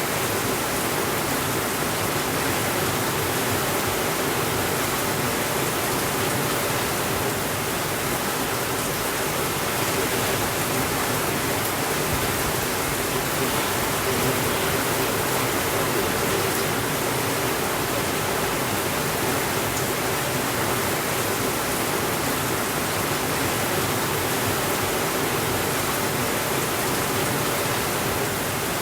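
Heavy rain falling steadily, an even hiss with no breaks or changes in level.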